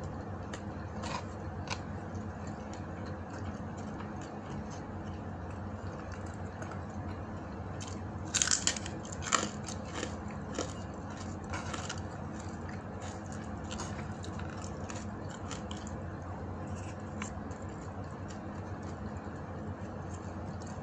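Close-up eating sounds: chewing and biting into food, with scattered small clicks and a burst of loud, crisp crunches about eight seconds in. A steady low hum runs underneath.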